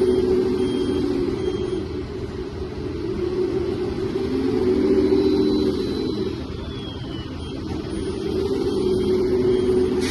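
Kabolite 1/14-scale 770S 6x6 RC tractor truck running, its pitched engine-like sound swelling and easing about three times as the truck is driven.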